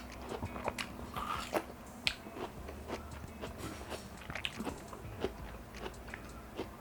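A person biting into and chewing watermelon close to the microphone, with irregular short clicks and mouth sounds throughout.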